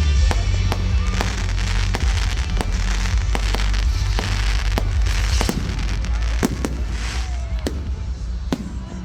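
Fireworks going off, a rapid, irregular string of sharp bangs and cracks, over background music with a heavy bass.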